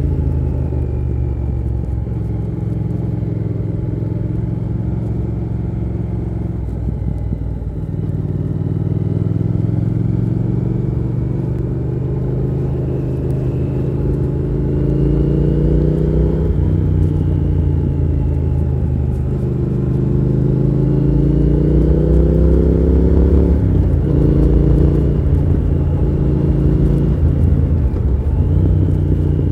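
Triumph Thruxton R 1200's parallel-twin engine running under way, rising in pitch several times as the bike accelerates and dropping back between, over a steady low rumble.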